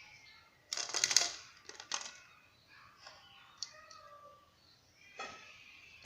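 Light clatter and clicks of kitchenware being handled, with a dense rattling burst about a second in, a shorter one near two seconds, scattered ticks, and another clatter near the end.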